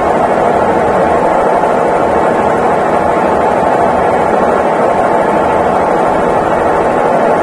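Consul Facilite 11 kg (CWG11) top-loading washing machine running mid-cycle with a steady, even noise.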